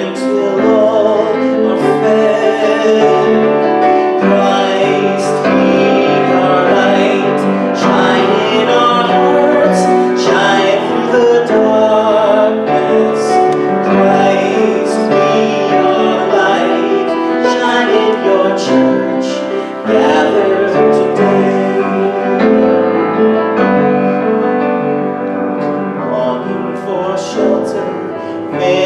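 Solo voice singing a hymn with piano accompaniment, held notes sung with vibrato.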